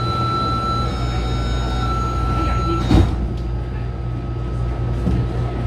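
Taipei Metro train running, heard from inside the car. There is a steady low rumble and a thin high whine, with one sharp knock about three seconds in.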